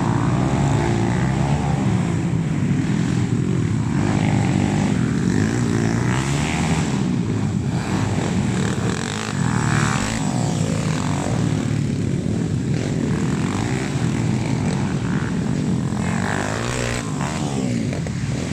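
Honda XRM motocross bikes' small single-cylinder engines running hard and revving, the pitch rising and falling over and over as they accelerate and shift.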